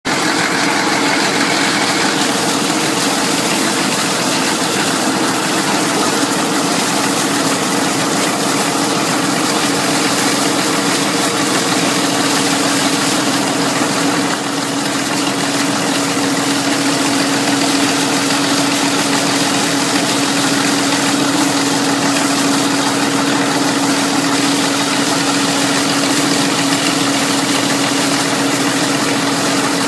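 Engine running steadily at an even speed, with a constant droning hum over a noisy rush.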